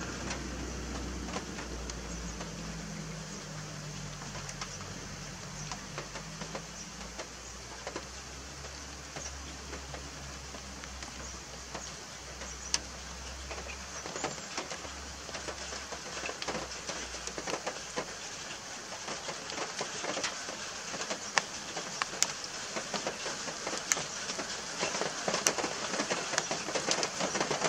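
Rain falling, with drops pattering and ticking sharply on leaves and surfaces; the drip clicks grow denser and louder in the second half. A low hum underneath fades out about halfway.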